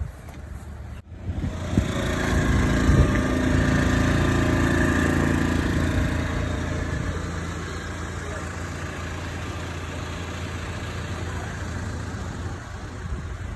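A motor running steadily, starting about a second in, louder for a few seconds and then settling to an even hum.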